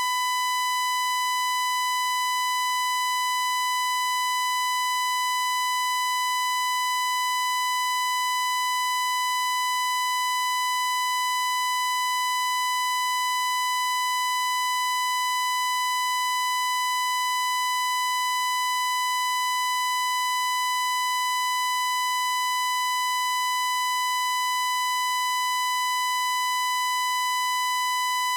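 A continuous electronic tone, one steady pitch around 1 kHz buzzy with overtones, held without any change in pitch or loudness.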